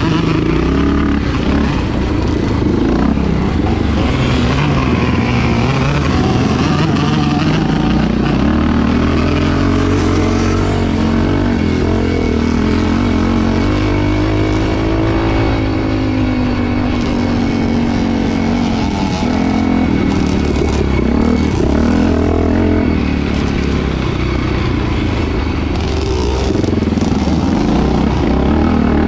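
Motocross motorcycle engines racing, revving up and down as the riders open and close the throttle. About halfway through, one engine's pitch rises smoothly and then falls away.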